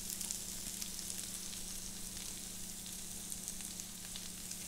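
Cubed potato, onion and sweet pepper sautéing in bacon fat: a faint, steady sizzle with small crackles.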